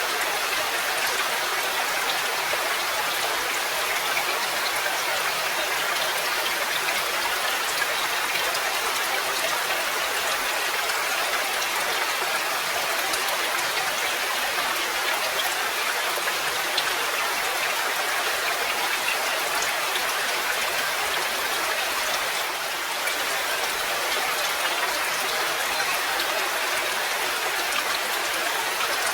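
Steady rain falling, an even hiss of rainfall with scattered faint ticks of single drops.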